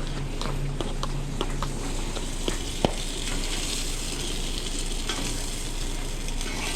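Food sizzling in hot oil on a commercial kitchen line, a steady frying hiss with scattered clicks of utensils and one sharp knock about three seconds in.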